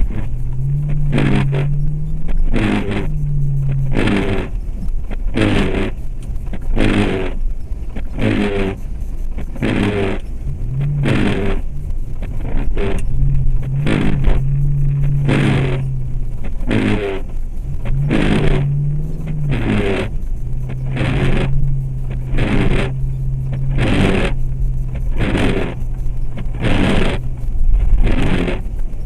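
2004 Jeep Grand Cherokee's 4.7-litre V8 running while driving on snow, its note holding steady and rising and falling now and then with the throttle, under a regular scraping stroke about every two-thirds of a second.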